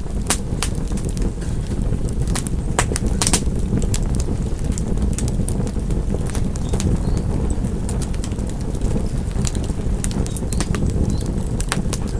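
Wood fire burning: a steady low rumble of flames with sharp crackles and pops scattered through it, more of them in the first few seconds and near the end.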